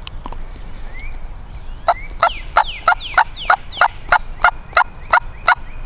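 Wild turkey hen yelping: a long series of about a dozen evenly spaced notes, about three a second, starting about two seconds in.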